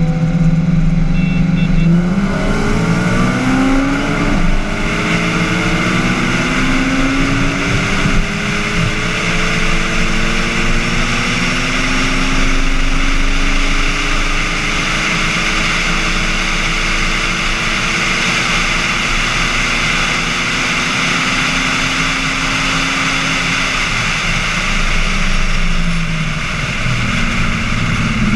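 Honda four-cylinder engines at full throttle in a roll race, the pitch climbing through several gears with a drop at each upshift. The engines then fall away near the end as the throttle lifts. Heavy wind rush runs throughout.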